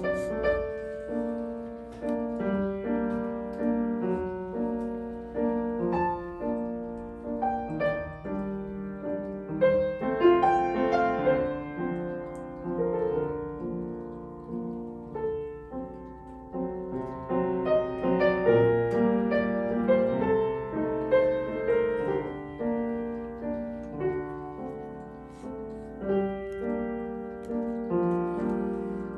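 Solo piano playing a lyrical piece: single notes and chords struck and left to ring, in phrases that swell and fall back.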